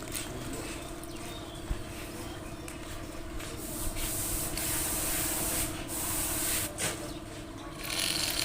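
A small motor humming steadily at one even pitch, with a hissing, rubbing noise over it that grows louder in the middle of the stretch.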